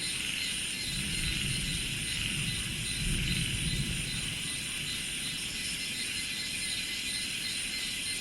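Rice-field insect chorus: a steady shrill hiss of insects with a high, evenly pulsing trill over it. A low rumble swells during the first few seconds and then fades.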